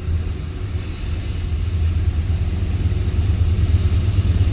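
Long freight train rolling past a level crossing: a steady low rumble that grows louder near the end as the rear diesel pusher locomotive draws near.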